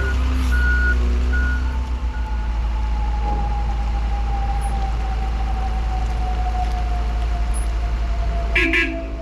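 A heavy truck's diesel engine runs steadily while a backup alarm beeps, stopping about two seconds in. A whine slowly drops in pitch, and a short horn toot sounds near the end.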